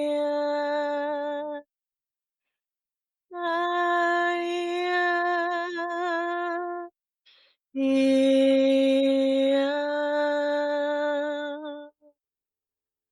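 A woman's voice toning light language: long, steady sung vowels in three phrases of a few seconds each, with short silent pauses between, the middle phrase wavering slightly in pitch.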